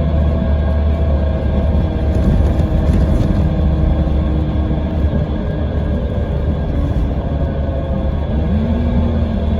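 Scania K320IB coach's diesel engine running with a steady low rumble; near the end a low tone rises in pitch and then holds.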